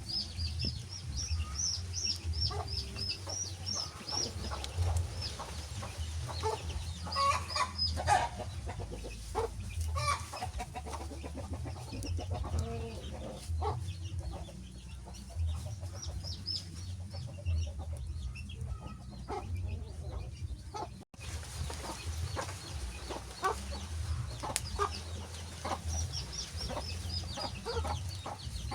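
Wood fire crackling with scattered sharp pops and clicks over a low rumble. Runs of short, quick high-pitched chirps come at the start and again near the end.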